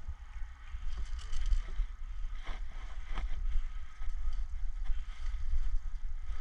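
Low, fluctuating rumble of buffeting on the microphone, with a few faint snaps between about one and three seconds in.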